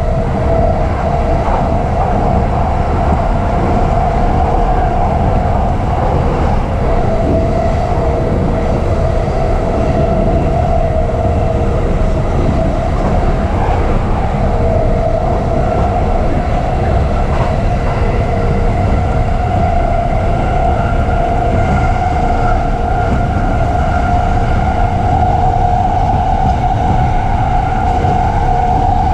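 E233-series electric commuter train running, heard from inside the carriage: a steady rolling rumble with a steady humming whine over it.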